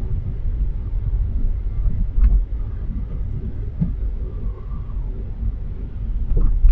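Low, steady rumble inside a car's cabin as it drives slowly on a snowy road on winter tyres, with a couple of light knocks.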